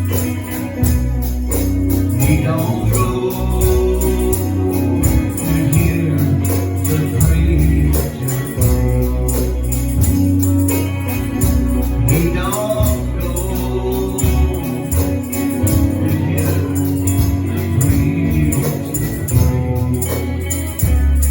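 Gospel music: singing over a steady bass line, with a tambourine keeping an even beat.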